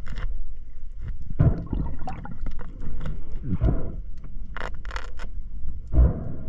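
Muffled underwater noise from spearfishing: irregular rushes of water and scrapes, with short clicks, the loudest rushes about a second and a half in, near the middle and near the end.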